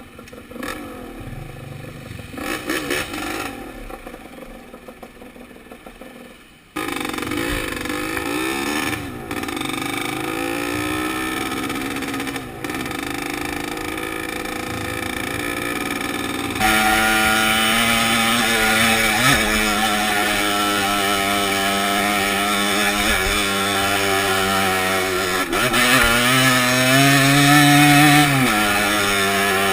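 Dirt bike engine running on a trail ride, quieter at first and much louder from about a quarter of the way in. Its pitch rises and falls as the throttle is opened and closed, and it climbs again shortly before the end.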